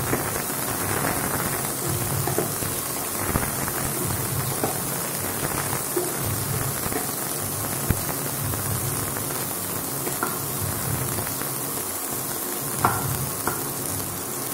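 Onion and capsicum pieces sizzling in a little hot oil in a nonstick kadai as they shallow-fry, a steady hiss with a few short clicks of the spatula against the pan.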